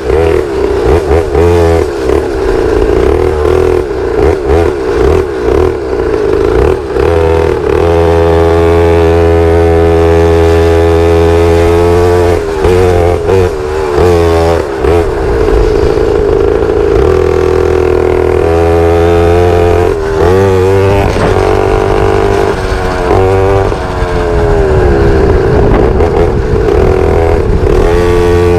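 Pit bike engine running under way, its pitch rising and falling as the throttle is opened and closed, with steady stretches at an even speed.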